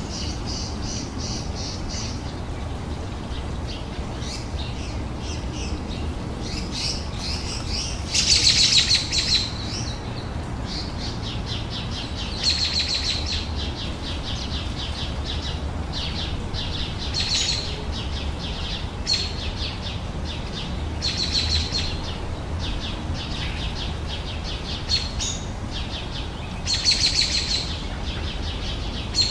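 Several small birds chirping and trilling, with repeated short high calls and a few louder bursts of song, over a steady low background rumble.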